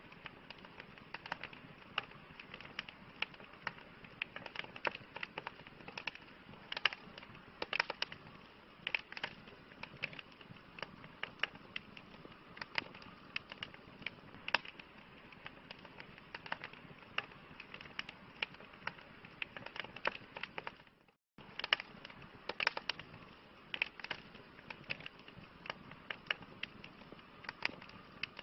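Campfire crackling: a steady hiss of burning wood with irregular sharp pops and snaps, several a second. The sound drops out completely for about half a second about three-quarters of the way in.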